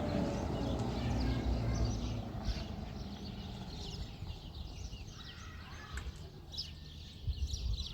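A car engine fading as it drives away, while birds chirp over it with many short, high calls.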